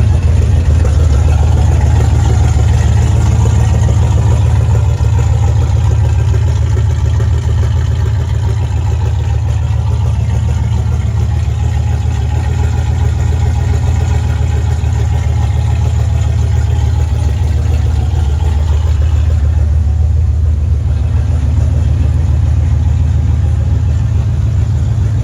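Muscle car's V8 engine idling with a loud, deep, steady exhaust rumble.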